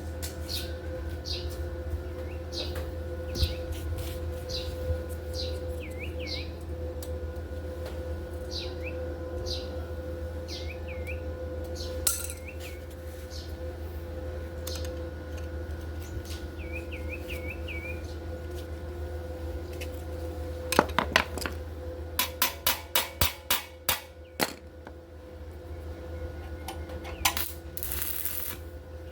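A small bird chirps over and over, short falling calls, over a steady background hum. Later comes a quick run of about a dozen sharp metallic clicks, followed by a brief hiss.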